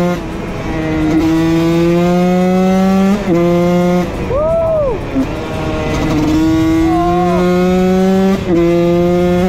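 Husqvarna WR 125 single-cylinder two-stroke engine pulling hard under way, its pitch climbing steadily through each gear and dropping at gear changes about 3 s and 8.5 s in. A brief rise and fall in revs comes midway.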